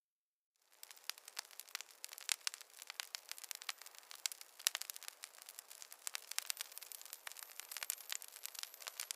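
Wood fire crackling in a fireplace: dense, irregular sharp pops and snaps over a faint hiss, starting after a brief moment of silence.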